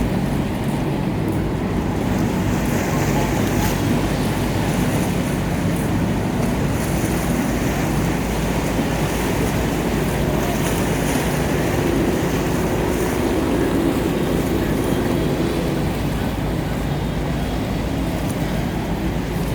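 A boat's engine running steadily, with a low rumble, over wind and water noise.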